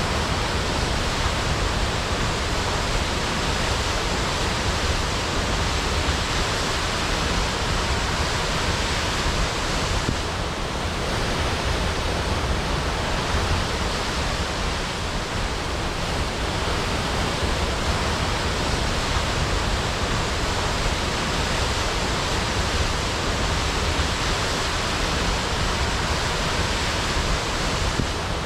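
Waterfall crashing, a steady, unbroken rush of falling water.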